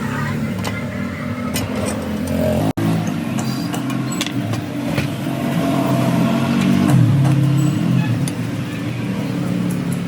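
A steady mechanical drone from a running motor or machine, with scattered light clicks and knocks. It cuts out for an instant a little under three seconds in.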